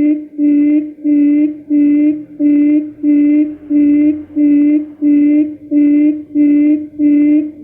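Recorded quail call used as a trapping lure: a short, steady, low hooting note repeated evenly, about two per second.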